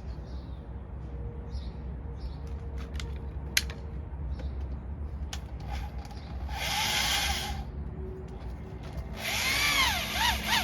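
Handheld power drill run in two short bursts, the second longer, with the motor pitch rising and falling, driving a screw through the trim into the trailer's side. A few light handling clicks come before the first burst.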